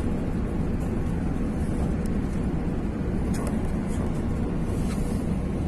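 Steady cabin noise of an Airbus A380 airliner in flight: an even, low engine and airflow roar, with a few faint ticks a few seconds in.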